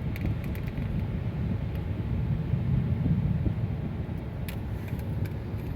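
Steady low rumble of a car driving on the road, heard from inside the cabin, with a few faint ticks.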